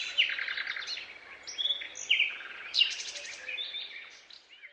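Songbirds chirping and trilling in quick, overlapping calls over a faint hiss, fading out near the end.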